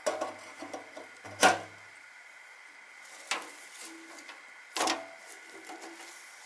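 Knocks and clatter of gear being handled, with two louder knocks, one about a second and a half in and one near five seconds.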